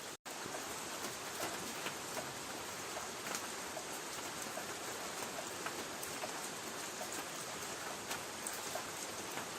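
Light rain pattering on a tin roof: a steady hiss of drops with scattered sharper single-drop ticks. The sound cuts out completely for a split second just after the start.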